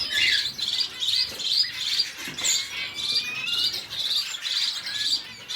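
Small cage birds chirping: a steady run of buzzy chirps, about three a second, with a few thin rising whistles among them.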